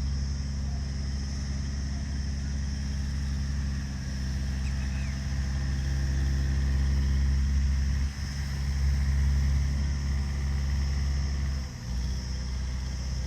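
An engine running steadily with a low, even hum. It dips briefly about eight seconds in and again near the end.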